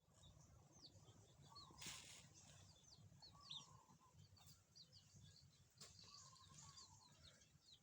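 Faint, rapid high-pitched bird chirping, many short calls one after another, over a low steady background rumble, with a brief rush of noise about two seconds in.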